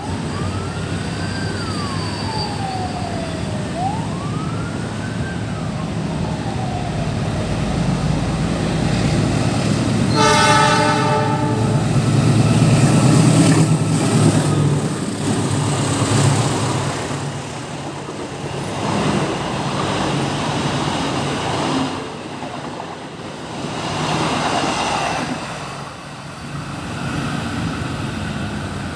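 Train passing with a steady low rumble that swells to its loudest about halfway through. About ten seconds in, the train horn sounds one blast of about a second and a half. Before that, a siren-like wail rises and falls twice.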